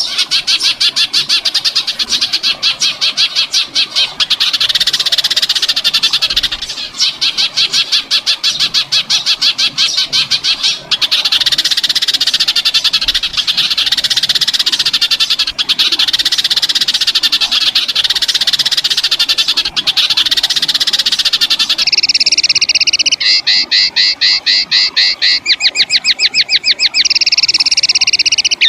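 Recorded songbird giving a long, very fast rattling trill of harsh repeated notes, broken by a few short gaps. About 22 seconds in it changes to a different bird's fast stuttering series of high notes. These are the harsh rapid-fire 'tembakan' calls used as training song for competition songbirds.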